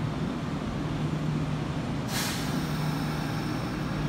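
Kintetsu electric train at the platform, with a steady low hum and a short hiss of air from its brakes about two seconds in.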